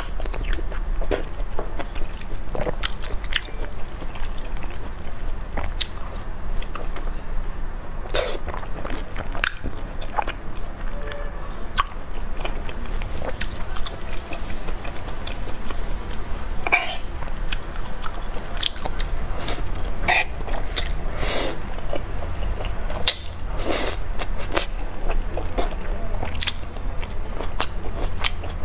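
Chewing and biting of food close to the microphone: a string of irregular short clicks and smacks, busier in the second half, over a steady low hum.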